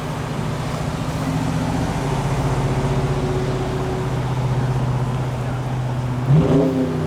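A car engine running steadily, with a quick blip of revs rising and falling about six seconds in.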